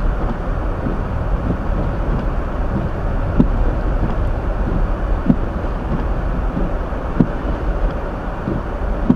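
Steady low road and tyre rumble inside a Hyundai Elantra's cabin, driving on a snow-covered road, with a soft knock about every two seconds.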